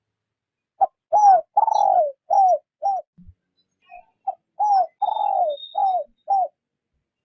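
Spotted dove cooing: two phrases of about five notes each, each phrase with one longer, drawn-out falling coo in the middle. This is the cooing of a decoy dove used to lure in wild doves.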